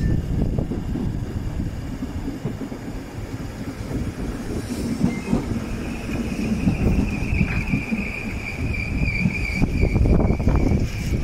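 Merseyrail electric multiple unit pulling into the platform and braking to a stop: a low rumble of wheels on the rails, with a steady high squeal setting in about halfway through as it brakes.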